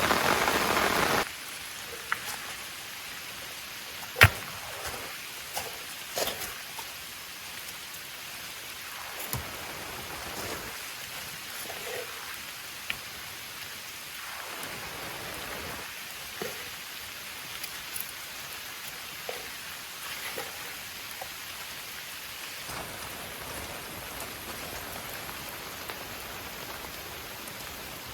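Heavy rain for about the first second, then a sudden drop to lighter steady rain with scattered drips and taps, the loudest a sharp tap about four seconds in.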